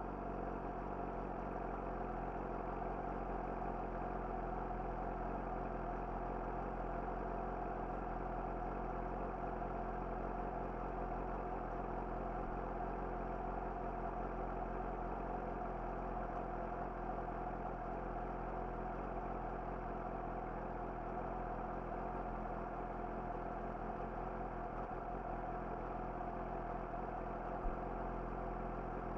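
Yamaha YZF-R6's inline-four engine idling steadily through an Akrapovic slip-on exhaust, with a single short click near the end.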